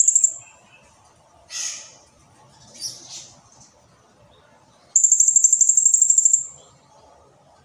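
Blue-crowned hanging parrot (serindit) singing. A few short, high chirps are followed about five seconds in by a long, very high, rapid trill of about a dozen pulses a second, which lasts about a second and a half.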